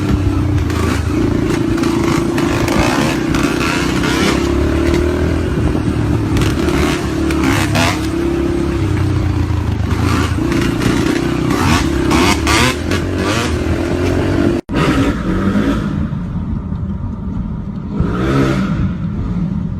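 Motorcycle engines running and revving, with irregular clattering knocks over the top. About fifteen seconds in the sound cuts, then goes quieter, and near the end an engine rises and falls in pitch as it revs or passes.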